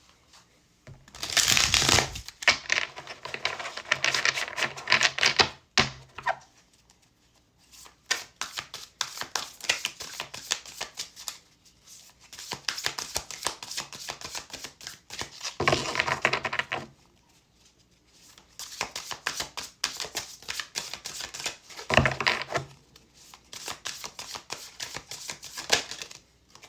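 Tarot deck being shuffled by hand: runs of rapid card clicks and flutters in about five rounds of a few seconds each, with short pauses between.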